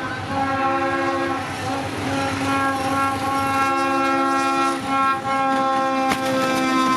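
Train horn sounding a chord of several pitches in long blasts with short breaks, over the running noise of the train. A few sharp clicks come about six seconds in.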